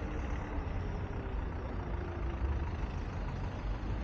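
Road traffic noise: a steady low rumble of vehicle engines, with buses or trucks running.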